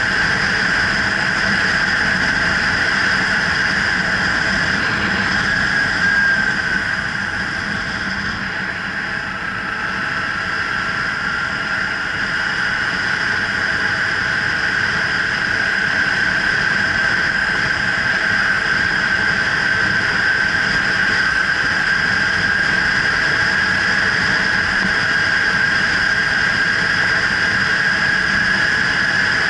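Kawasaki Ninja 300 parallel-twin engine running on the move, with wind rush. Its steady high whine drops in pitch and level about seven seconds in, then climbs slowly back up.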